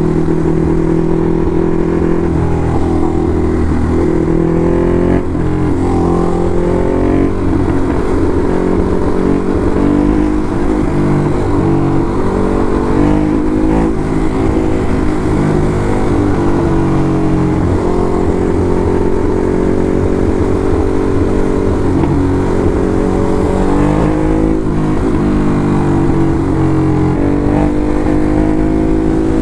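Ducati Hypermotard SP's L-twin engine running under way, its pitch rising and falling in steps several times with throttle and gear changes.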